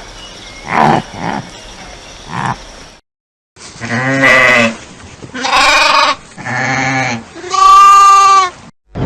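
Sheep bleating four times, the last bleat the longest, after a brief gap. Before the gap, a few short low grunts over a steady hiss.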